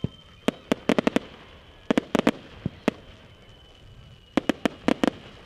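Display fireworks going off: sharp, quick cracks and bangs in rapid clusters of several at a time, three or four volleys with short gaps between them.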